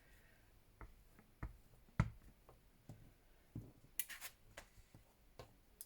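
Scattered light taps and clicks of a rubber stamp and card being handled and pressed on a craft table, the sharpest tap about two seconds in, with a couple of brief scratchy sounds around four seconds in.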